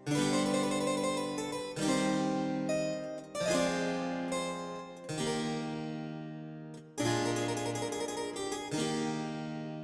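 Background music: a harpsichord playing slow chords, a new chord struck about every two seconds and left to fade.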